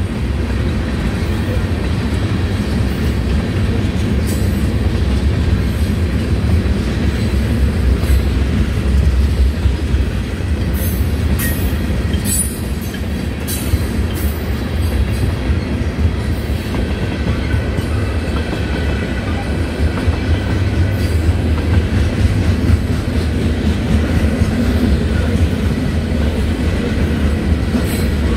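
Freight train's tank cars and boxcars rolling past at close range: a steady rumble of wheels on rail with scattered clicks over the joints. A faint, thin squeal creeps in about halfway through.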